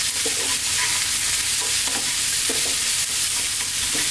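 Cauliflower, onions and bell peppers sizzling in hot oil in a wok over high heat while being stir-fried. A wooden spatula scrapes and knocks against the pan about every second.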